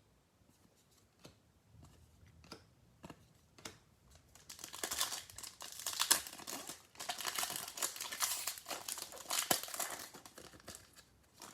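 Bowman baseball card pack wrapper being torn open and crinkled. A few light clicks and taps come first, then about six seconds of crinkling and tearing.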